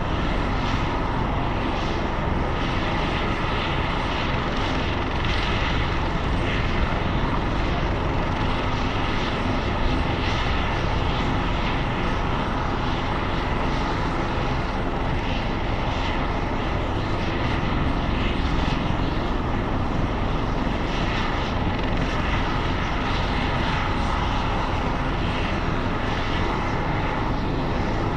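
Turbine helicopter running steadily close by: a constant engine whine over the rotor noise, holding the same pitch and level throughout.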